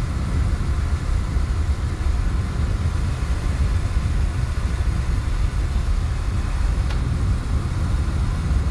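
Steam pressure washer running with its diesel burner firing, air band wide open and a small 0.65 nozzle fitted: a steady low rumble. A faint tick about seven seconds in.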